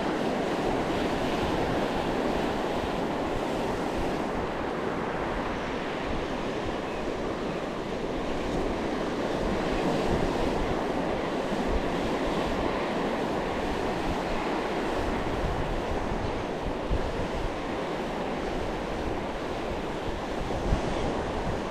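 Sea surf washing steadily onto the shore, swelling a little midway, with wind buffeting the microphone and a short knock near the end.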